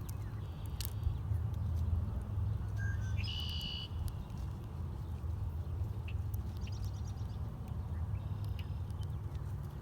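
Small birds chirping sparsely at a feeder, with one brief, brighter call about three and a half seconds in and a few faint chirps later, over a steady low rumble and scattered small clicks.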